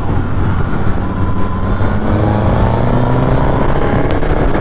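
Suzuki GSX-S1000's inline-four engine pulling under acceleration, its pitch climbing steadily from about halfway through. A sharp click comes near the end.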